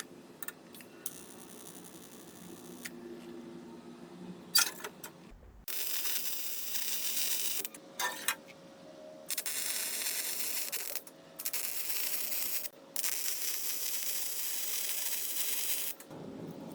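Metalworking on an angle-iron frame: a few light metal clicks and a sharp clank, then several stretches of loud, harsh hissing noise from a metalworking tool, each cutting off abruptly after a short gap.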